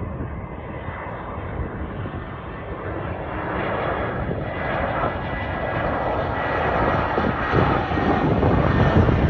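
Airbus A320 jet engines running, a steady rush of engine noise with a faint high whine that grows steadily louder.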